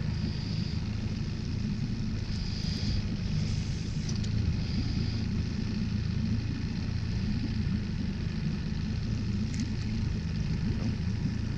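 Jon boat's motor running steadily with a low, even rumble. Faint high chirps come and go over it in the first few seconds.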